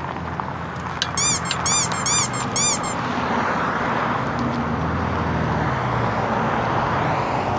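Steady road traffic noise, with a run of about five quick, high chirps from about one to three seconds in.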